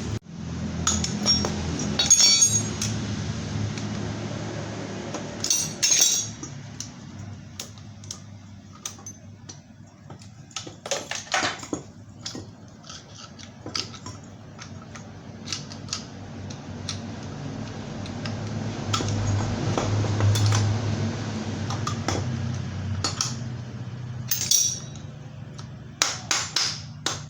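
Metal tools and engine parts clinking and knocking irregularly as a Vespa engine is taken apart, over a steady low hum.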